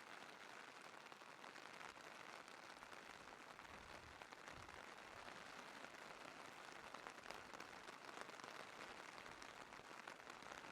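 Faint steady rain: an even hiss with scattered drop ticks, with a faint low rumble about four seconds in.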